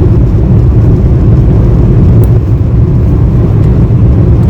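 Steady low rumble of a car driving on the highway, engine and tyre noise heard from inside the cabin.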